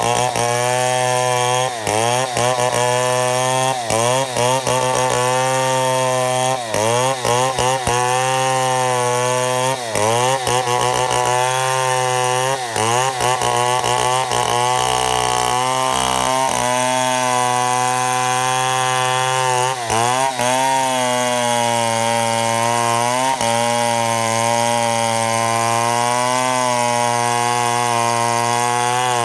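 Chainsaw running at full throttle while ripping a mahogany log lengthwise into slabs. The engine note wavers up and down as the load on the chain changes.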